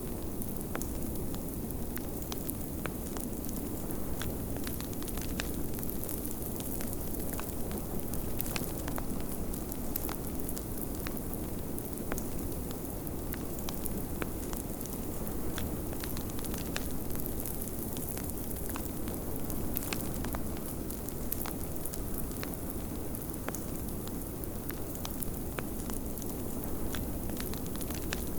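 Wood fire crackling, with many small sharp pops, over a steady low rush of blizzard wind.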